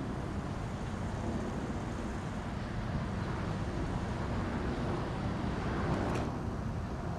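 EP08 electric locomotive and its passenger coaches rolling in toward the listener, a steady low rumble of wheels on rail and running gear. A sharp click comes near the end.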